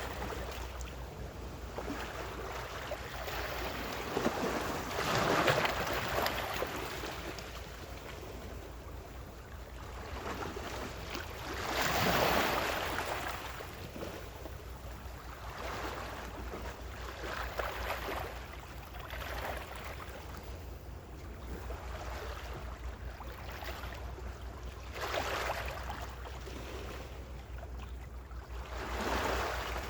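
Gentle ocean waves breaking and washing ashore, one surge every few seconds, the biggest about five and twelve seconds in, over a low steady rumble.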